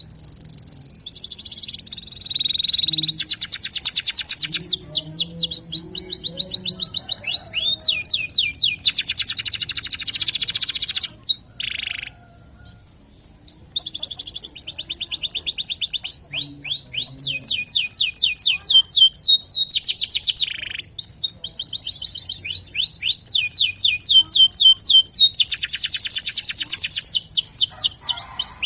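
Domestic canary singing in long, fast trills of rapidly repeated high notes, broken by brief pauses about twelve and twenty-one seconds in.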